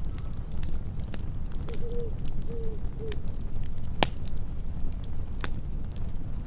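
Campfire burning with a low rumble and steady crackling, one sharp pop about four seconds in and another a little later. Crickets chirp in short repeated high pulses, and a few short low calls from a night animal sound about two seconds in.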